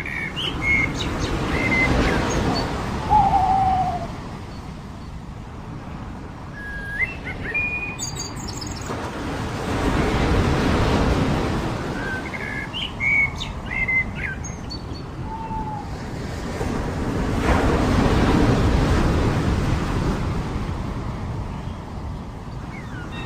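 Surf breaking and washing up the shore in slow swells, about three in all, with small birds chirping in short bursts of calls over it and a lower, falling call heard twice.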